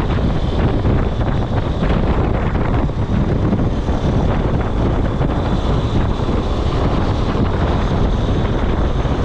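Wind buffeting the microphone: a steady, loud low rumble that flutters throughout.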